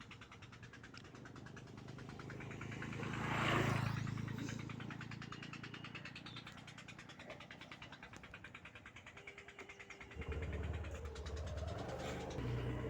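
A road vehicle passes, its noise swelling to a peak about three and a half seconds in and then fading away. From about ten seconds in, a low, steady engine hum sets in.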